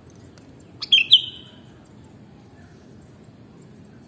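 Sooty-headed bulbul (kutilang) giving one short call of a few quick, bright notes about a second in, over a steady low background noise.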